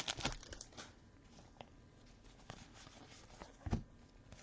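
Trading cards being handled: soft rustling and sliding in the first second, then a few faint clicks and a soft tap.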